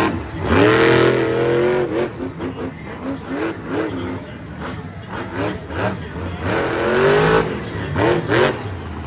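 Monster truck engine revving hard in two long pulls, about half a second in and again about six and a half seconds in, with short throttle blips between.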